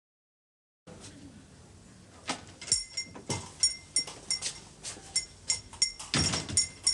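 Light metallic clinking, about three clinks a second, each with a brief high ring. A louder rustling noise comes about six seconds in.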